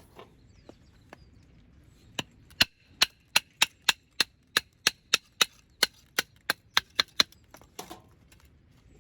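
Quick repeated hammering: about seventeen sharp knocks, three to four a second, with a faint ring, stopping about seven seconds in.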